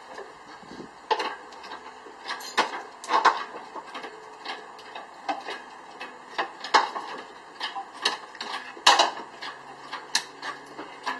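Irregular metallic clicks and knocks of hand tools working on the engine mounts and bolts, with a few louder knocks about three seconds in and again about nine seconds in.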